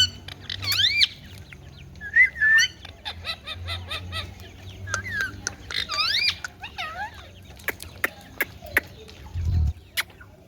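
Indian ringneck parrot making short whistled calls that glide up and down in pitch, several in a row, followed in the second half by a run of sharp clicks and a brief low thud near the end.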